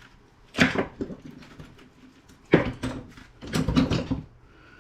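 Small salvaged metal scrap parts being handled and set down, clattering in three short bursts with quiet between.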